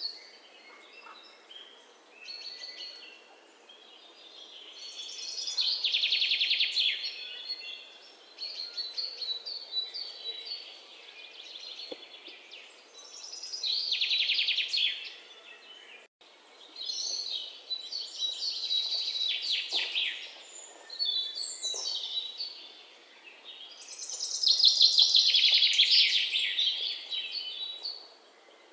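Wild songbirds chirping and singing, with rapid trills that swell loud three times, about every ten seconds, and softer scattered calls in between, over a faint steady outdoor hiss.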